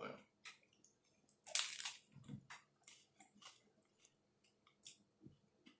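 A person chewing a mouthful of taco close to the microphone, with wet clicks and smacks and one louder bite about one and a half seconds in.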